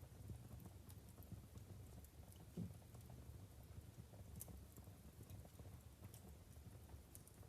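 Wood fire in a fireplace crackling faintly: scattered sharp pops from the burning logs over a low steady rumble.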